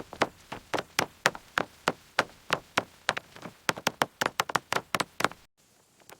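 Rapid sharp knocks and taps, about three or four a second, like tapping or hammering on wood, ending with an abrupt cut near the end.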